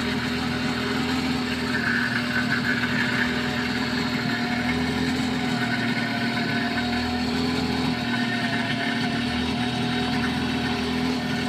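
Engine running steadily at a constant speed: an even hum that holds one pitch.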